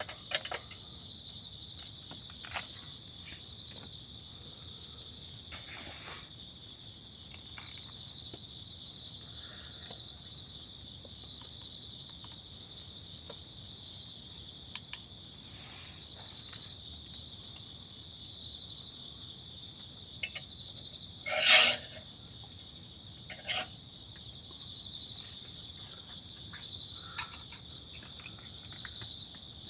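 Crickets chirring steadily in a dense, high, pulsing trill. Scattered small clicks and knocks sound over it, the loudest a short clatter about two-thirds of the way through.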